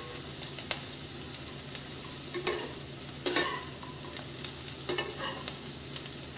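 Bitter gourd rings sizzling steadily as they fry in oil in a nonstick kadhai, with the scrape and clack of a perforated steel skimmer stirring them now and then, most clearly about two and a half, three and a quarter and five seconds in.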